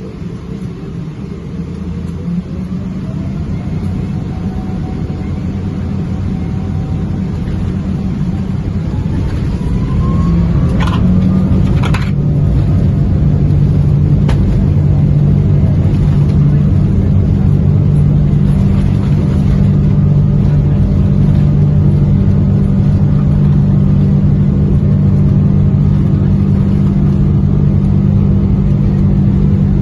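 Boeing 777's jet engines spooling up to takeoff thrust, heard from inside the cabin. A rising whine and a building rumble grow over about ten seconds, then settle into a steady loud drone, with a few sharp knocks a little after the middle.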